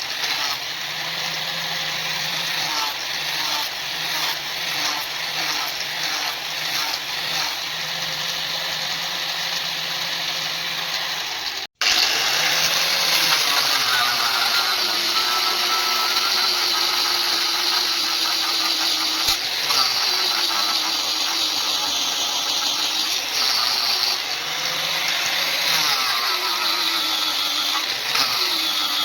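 Electric power tool motor running, its pitch dipping and recovering again and again as it is loaded against the steel. An abrupt break about 12 seconds in is followed by a louder stretch.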